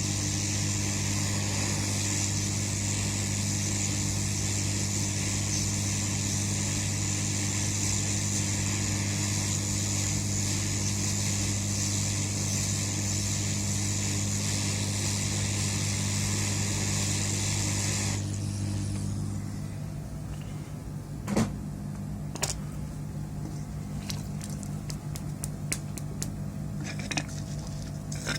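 Steady hiss and hum of a small electric blower or fan running on a repair bench, cutting out about eighteen seconds in, followed by a lower hum and a few light clicks and taps.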